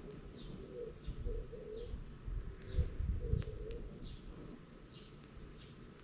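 A dove cooing in short low phrases, repeated several times, while a small bird chirps at a steady high pace. A few dull low thumps come in the middle.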